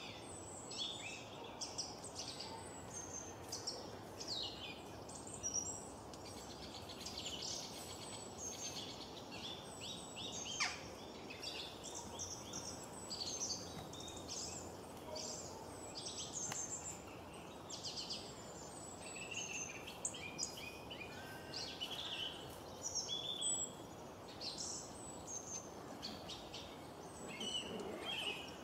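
Several birds chirping and calling, many short quick notes overlapping throughout, over a faint steady hiss.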